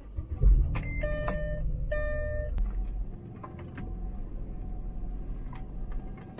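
Car engine starting with a sudden low surge and settling into a steady idle, which drops a little about three seconds in. Two short electronic warning chimes sound just after the start.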